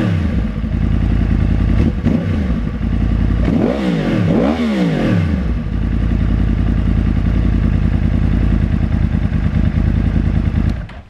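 2011 Yamaha YZF-R1 crossplane inline-four through an Akrapovič full exhaust system: two quick throttle blips about four seconds in, each revving sharply up and dropping back. The engine then settles into a steady idle that cuts off just before the end.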